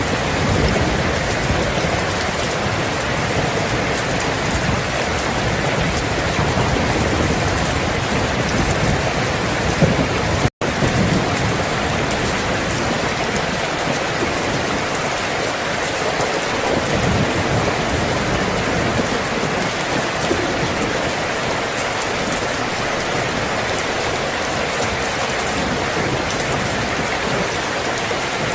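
Steady heavy rain falling, with low rumbles of thunder underneath. The sound cuts out completely for a split second about ten seconds in.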